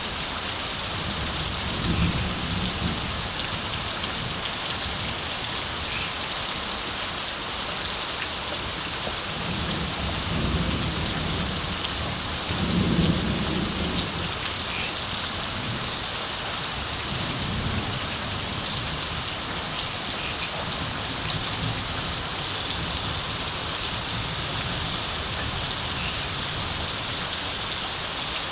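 Steady rain falling, with several low rumbles of distant thunder rolling under it; the strongest rumble comes about halfway through.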